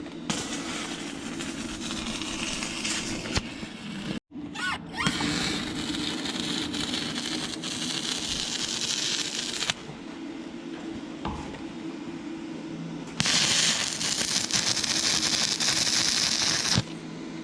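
Stick-welding arc from an inverter arc welder burning a rod into rusty, painted metal: a steady crackling sizzle. It breaks off for a moment about four seconds in, runs quieter for a few seconds past the middle, and is louder again near the end.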